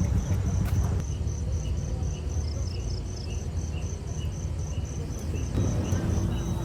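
Insects chirping in a fast, even rhythm, about three or four high chirps a second, over a steady low rumble.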